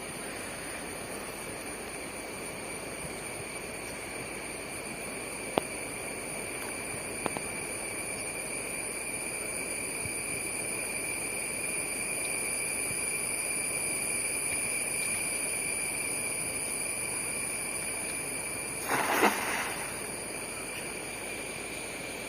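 Steady high-pitched chorus of crickets or similar insects, with two sharp clicks and a short burst of noise near the end.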